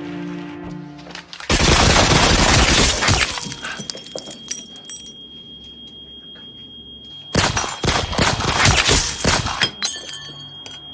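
Film sound effects: a sudden loud crash about a second and a half in, then a thin high steady ringing tone, then a second run of loud crashing impacts about seven seconds in.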